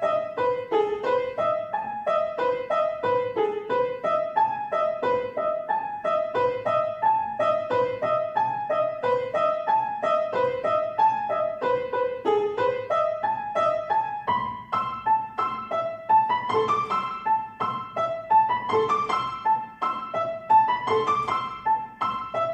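Solo piano played by a young pianist: an even stream of quick, light notes, turning into rising runs in a higher register over the last several seconds.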